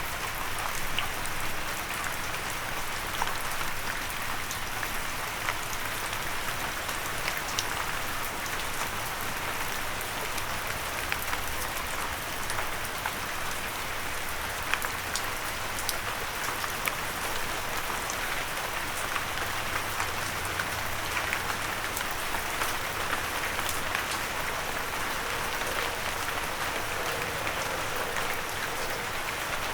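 Steady rain falling on a windowsill, a continuous hiss with many scattered, sharp individual drop ticks.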